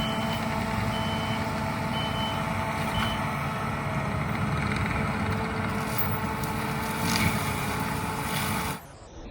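Skid steer running loudly, its reversing alarm giving four beeps about a second apart early on before stopping. The machine noise drops away abruptly near the end.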